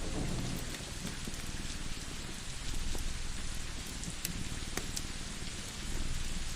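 Steady rain ambience with a few sharp wood-fire crackles, and the tail of a thunder rumble fading out at the start.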